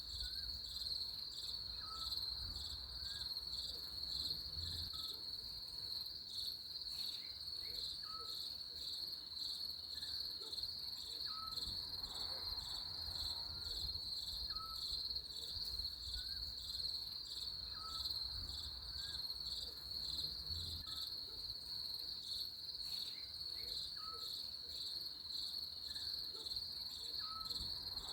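Steady chorus of insects, a fast pulsing trill that runs throughout, with faint short chirps repeating every second or two and a low rumble underneath.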